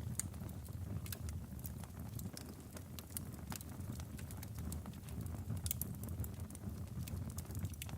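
Logs burning in a fireplace: a steady low rumble of flame with scattered sharp crackles and pops.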